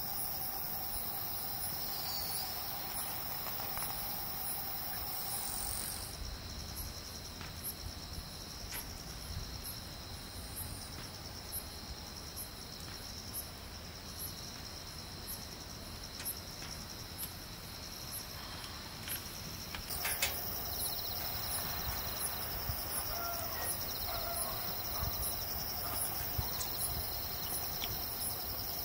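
Insects chirring steadily in a pulsing high drone, with a second insect ticking in a regular high rhythm about twice a second. The mix shifts twice, a few seconds in and about two-thirds of the way through.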